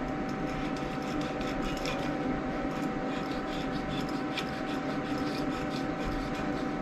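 Flux-core wire-feed welder: a steady hum with fine, even crackling.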